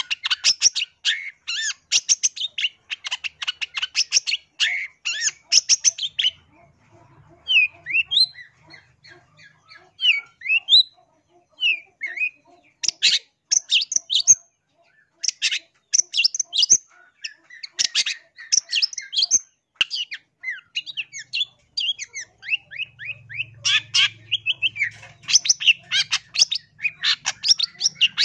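Long-tailed shrike (cendet) singing: rapid runs of harsh, chattering notes, giving way for a few seconds about a quarter of the way in to softer slurred whistles that rise and fall, then the fast chatter picks up again.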